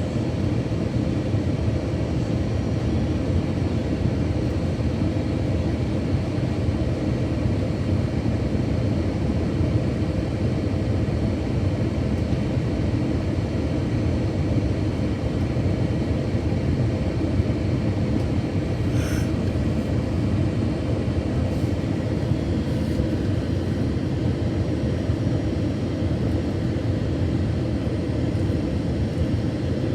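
Steady low rumble of engines and airflow heard inside the cabin of an Airbus A321-200 on approach, with a faint brief tick about two-thirds of the way through.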